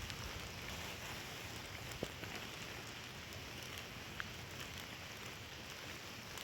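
Steady rain falling, an even hiss with a few separate drops ticking sharply now and then.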